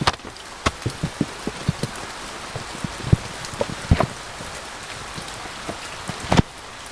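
Rain falling in a steady hiss, with irregular heavier drops tapping on a surface.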